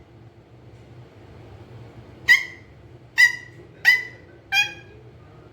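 Rose-ringed (Indian ringneck) parakeet giving four short, shrill calls in quick succession, starting about two seconds in.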